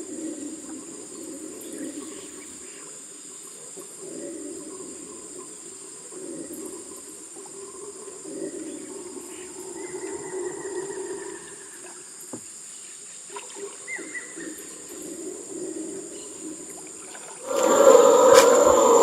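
Rainforest insects drone steadily at a high pitch over a lower, wavering chorus, with a short whistled call about halfway through. About a second and a half before the end the sound suddenly becomes much louder.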